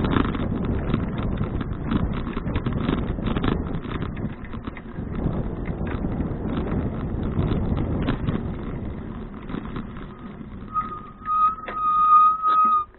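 Bicycle ride heard on an action cam: wind and tyre rumble with small rattles and clicks. Near the end the rumble drops and a steady high squeal rings for about two seconds, the sound of the bicycle's brakes as it slows.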